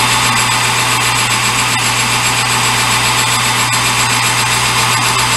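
Metal lathe running at a steady speed, with a constant low motor hum under an even whir from the drive.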